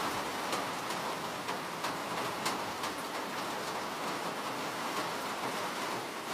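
Steady rain, with individual drops ticking sharply on a hard surface over the hiss.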